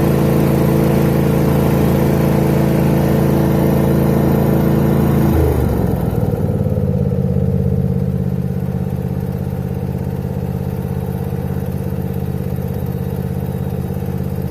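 An engine running steadily, then dropping to a lower, steady pitch about five and a half seconds in.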